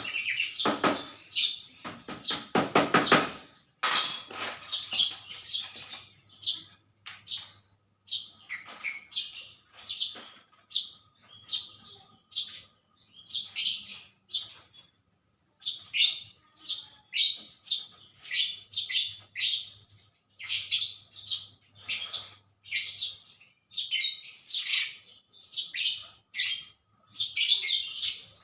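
Small birds chirping over and over, short high calls coming in quick irregular runs. A few knocks sound in the first few seconds.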